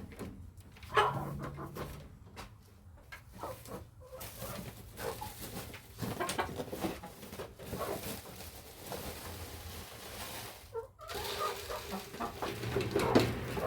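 Chickens clucking, with louder calls about a second in and near the end.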